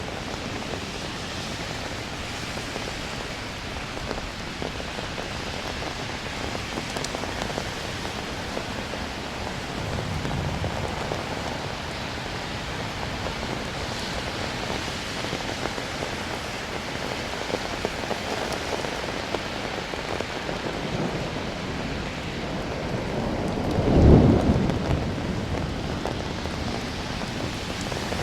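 Steady rain falling, with low rumbles of thunder. A small rumble comes about a third of the way in, and the loudest rumble swells up and peaks toward the end.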